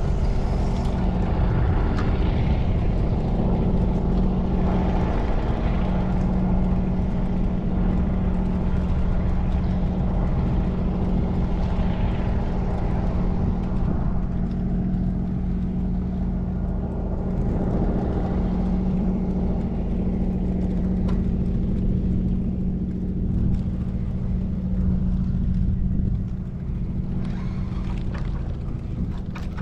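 A boat engine running steadily at a constant pitch, with a strong low rumble. It eases off slightly a few seconds before the end.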